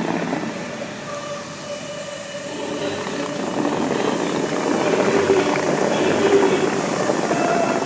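Steady rushing noise of the fountain's water jets and falling spray, swelling in the second half, with faint music and voices under it.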